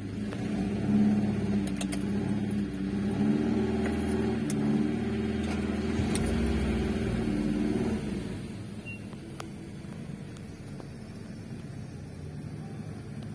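A Fiat 147's small petrol engine running unevenly, its note wavering as the car reverses out of a garage, then falling away to a much fainter sound about eight seconds in.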